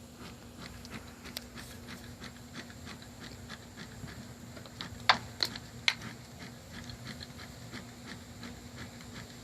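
Honeybees buzzing in a steady hum, with scattered light clicks and three sharper clicks about five to six seconds in.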